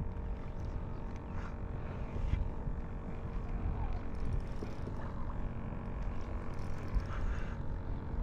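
Wind rumbling on the microphone out on open water, with a faint steady hum beneath it.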